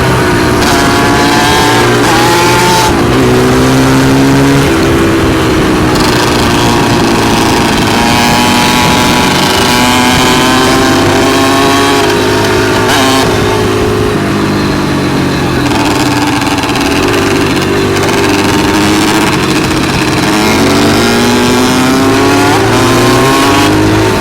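Dirt bike engine running hard on a trail, its pitch climbing and dropping back again and again as the rider accelerates and shifts gears.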